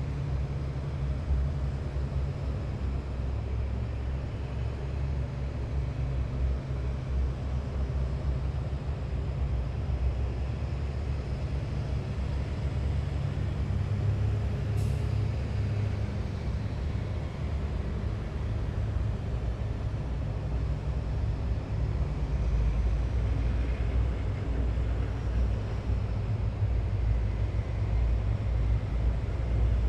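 Heavy military vehicles driving past in a column, their engines giving a steady low drone that swells in the second half. A brief high-pitched hiss comes about halfway through.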